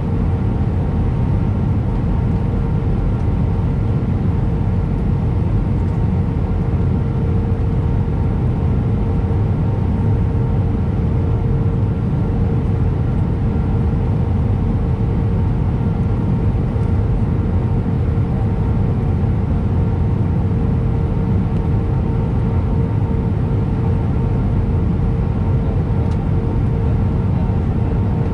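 Airbus A319 cabin noise in flight: a steady rumble of airflow and jet engines, with a constant engine hum tone on top.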